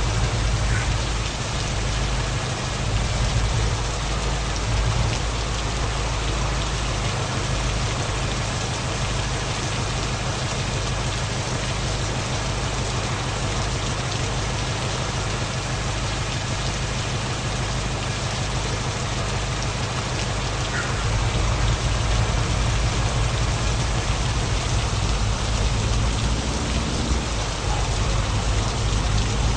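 Heavy truck on the move: a steady low engine drone under a continuous hiss, with the engine pitch rising near the end.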